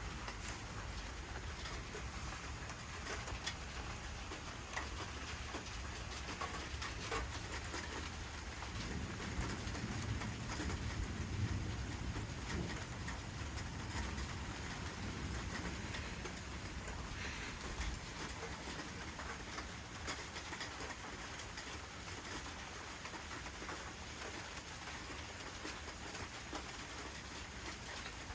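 Steady heavy rain, with drops pattering on nearby surfaces. About nine seconds in, a low rumble of thunder swells and fades over several seconds.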